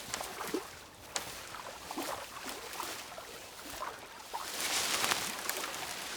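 Water sloshing and splashing around a beaver swimming with branches in its pond, with small knocks and clicks and a fuller rush of water about four and a half seconds in.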